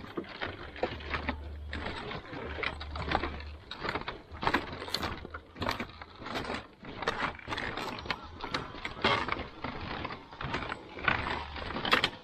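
Footsteps on a woven bamboo walkway, the slats clacking and creaking in quick, irregular knocks several times a second.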